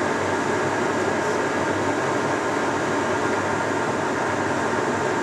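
Monarch 18 x 54 engine lathe running under power: spindle turning and headstock gears running with a steady whir and a constant high whine.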